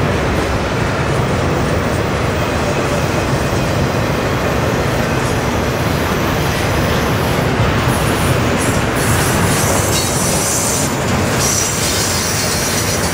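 Double-stack intermodal container cars rolling past on steel wheels with a steady rumble. A high-pitched wheel squeal sets in about two-thirds of the way through.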